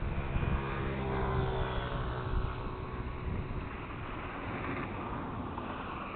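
An engine running steadily, loudest in the first couple of seconds.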